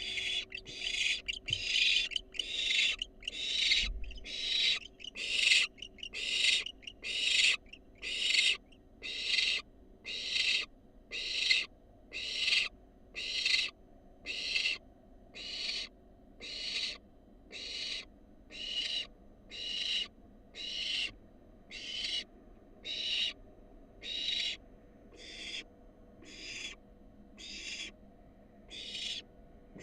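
Barn owl fledgling's begging calls: harsh, hissing screeches repeated about once a second, a little faster and overlapping at first.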